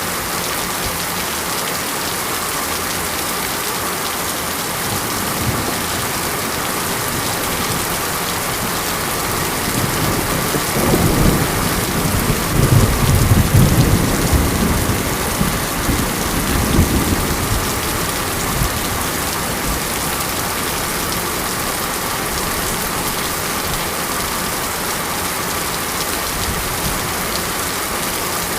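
Steady rain, with a low rumble of thunder that swells about ten seconds in, peaks a few seconds later and dies away over about eight seconds.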